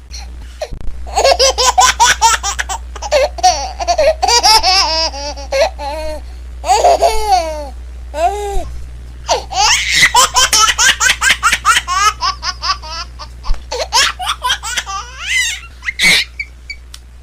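High-pitched laughter in quick repeated ha-ha pulses. It comes in two long runs with a short break partway through.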